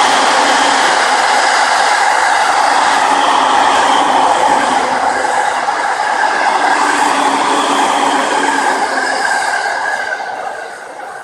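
A train running by, a loud steady rush of noise with a few drawn-out tones held in it, fading away near the end.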